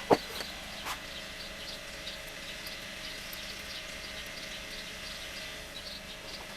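A sharp knock just after the start and a lighter one about a second in, over a steady background of faint, short bird chirps.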